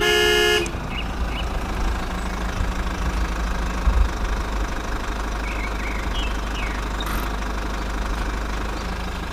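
A small engine running steadily at a low pitch, with a brief electronic tone in the first half second.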